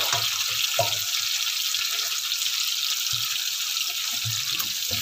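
Onion, tomato and spices sizzling steadily in hot ghee in a karahi as the masala fries, with a few faint low knocks.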